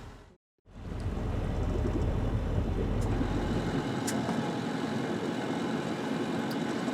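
Sailboat's inboard engine running steadily under way, a constant drone with rushing noise over it. It drops out briefly about half a second in, and its deepest hum falls away about four seconds in.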